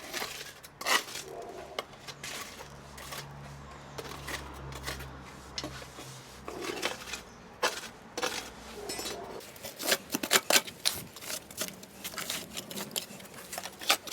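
Metal bar scraping and clinking along patio joints, raking out old mortar: irregular scrapes that come faster in the last few seconds.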